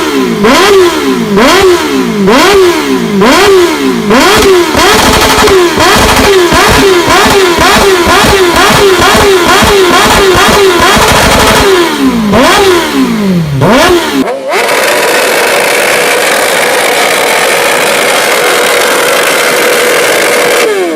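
Sportbike exhausts from a Kawasaki Ninja H2R vs BMW S1000RR comparison. For about 14 s an engine is revved again and again, each rev rising and falling in pitch, about one a second. Then a sudden cut to a second bike held at a steady high-rpm note with a hissing edge.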